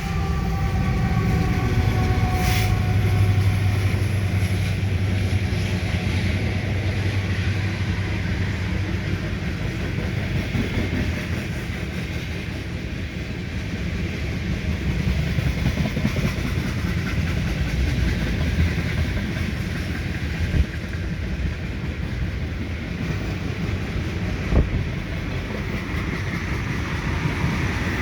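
A diesel-hauled freight train rolling past: a deep engine hum in the first several seconds, then the steady rumble of the freight cars going by with clickety-clack, and two sharp clanks from the wheels in the second half.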